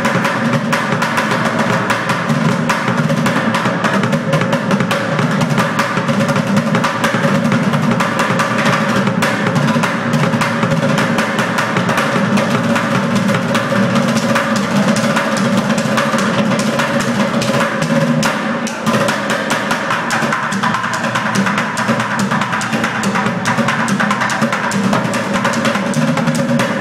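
Bucket drummers playing a fast, dense rhythm on plastic pails, with rapid strokes and rolls.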